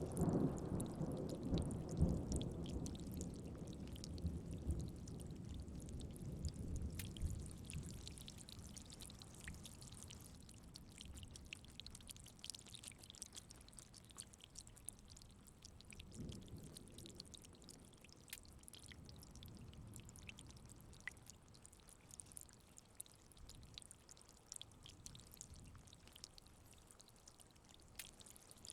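Rain falling steadily, with scattered drops heard throughout. A low roll of thunder dies away over the first several seconds, and a fainter rumble swells and fades again about halfway through.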